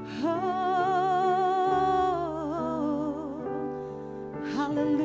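A worship singer holding a long note with vibrato over sustained keyboard chords, in slow worship music.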